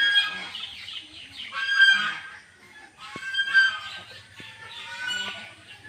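Nestling birds begging in the nest: four loud bursts of calling from several chicks at once, repeating about every one and a half to two seconds, with softer calls in between.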